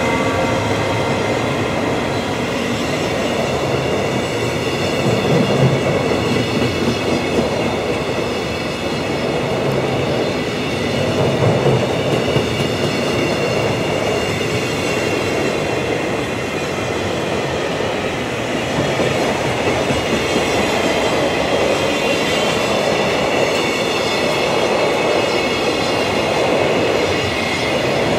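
Container wagons of a freight train rolling past at speed: a steady rumble of wheels on rail with clatter from the wagons, and a faint high whine held above it.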